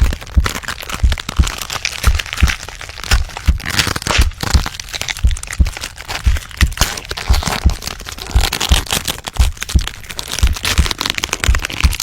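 Transformation sound effect: dense cracking and crunching, like bones snapping and flesh stretching, over a steady run of low thuds about three a second.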